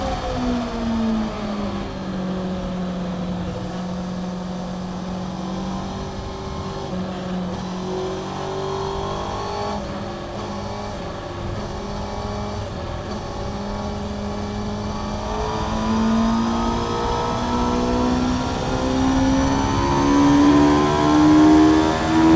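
Honda CBR600F inline-four engine with a Mivv aftermarket exhaust, heard onboard. The engine note drops as the bike slows, holds a steady lower pitch for about thirteen seconds, then climbs steadily as the revs build under acceleration.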